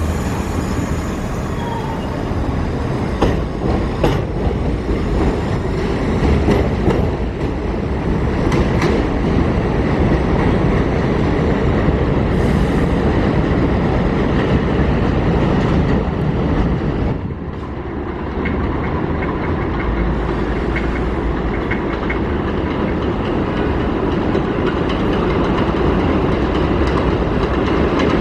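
New York City Subway train running on the elevated IRT Pelham Line: a steady, loud rumble of steel wheels on the el structure, with wheels clacking over rail joints. The sound drops briefly just past the middle, then carries on.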